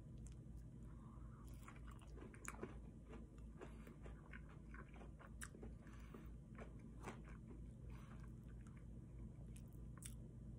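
Close-up chewing and crunching of breaded fried chicken tenders with mashed potatoes, as scattered soft crunches and wet mouth clicks over a faint steady low hum.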